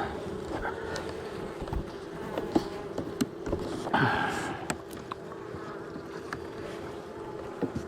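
Honey bees buzzing at an open hive: a steady hum, with one bee buzzing louder close by about four seconds in, and scattered light clicks.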